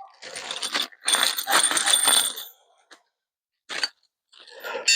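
Small metal pieces jingling and clinking as they are handled: a rattling stretch over the first couple of seconds, then a few separate clinks, the last one ringing briefly.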